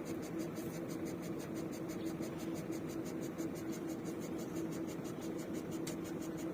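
Borewell drilling rig machinery running steadily: an even hum with a constant tone and a fast, regular ticking rhythm that does not change.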